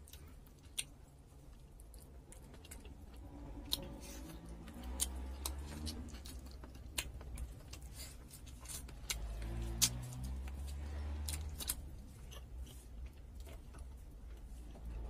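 A person chewing pieces of boiled chicken, with scattered sharp, wet mouth clicks and smacks.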